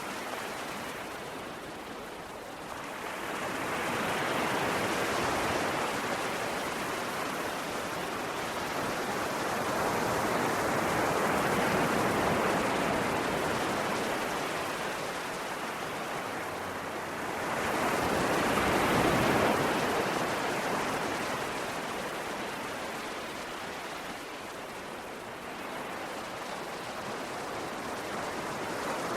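Ocean waves breaking and washing on a shore, swelling and receding in slow surges, the biggest wave about nineteen seconds in.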